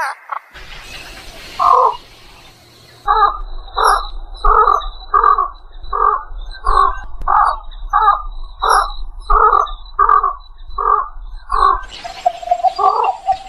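A bird giving a steady series of about fifteen loud calls, roughly one every 0.6 seconds, between about three and twelve seconds in.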